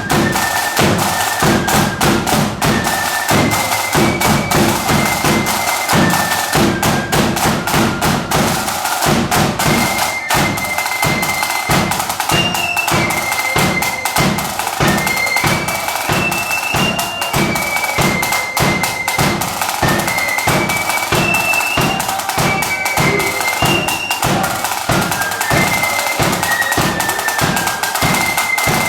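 Marching flute band playing: a high flute melody over a steady beat of snare and bass drums.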